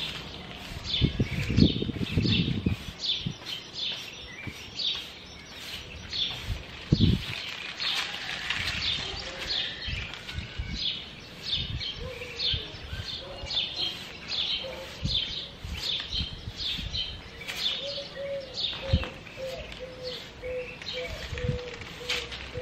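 A small bird chirping over and over, short high chirps about twice a second. A few low thumps stand out near the start and again about seven seconds in.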